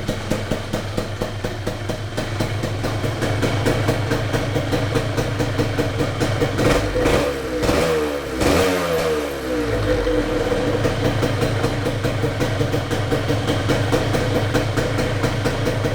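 Yamaha DT175MX single-cylinder two-stroke engine idling, freshly rebuilt with new piston, rings and crank bearings. About seven seconds in it is revved a few times, the pitch rising and falling, then it settles back to a steady idle.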